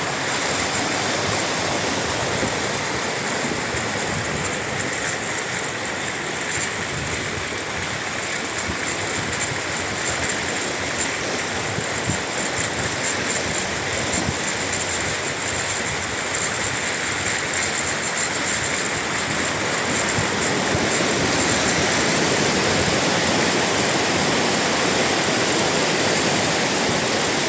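Steady rushing noise with no clear events, with a thin, high, steady whine above it.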